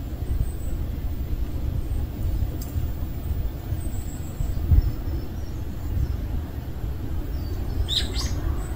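Outdoor ambience: a steady low rumble with a few faint, high bird chirps, the clearest pair about eight seconds in.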